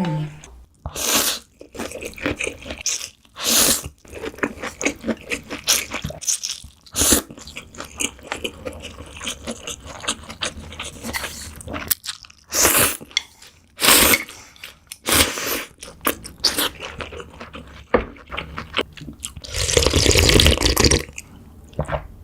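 Close-up eating sounds of pho: rice noodles and broth slurped in a series of noisy pulls, the longest near the end, with chewing between them.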